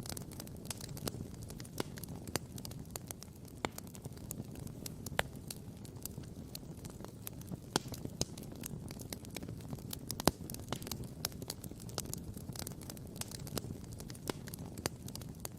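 Wood campfire crackling and popping: sharp pops at irregular intervals, a few louder than the rest, over a steady low rumble.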